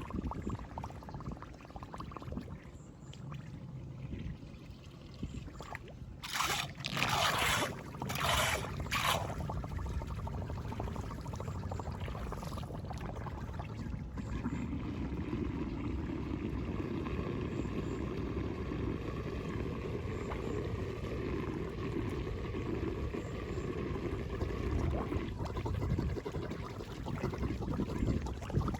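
Flood water rushing and draining through a cleared road grate, steady throughout. There are two short, louder noisy bursts a little after six and eight seconds in.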